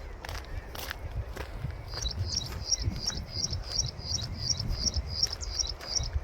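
A bird repeating a short, high chirping note about four times a second, starting about two seconds in and going on steadily. Beneath it are a few footstep-like clicks and a low rumble.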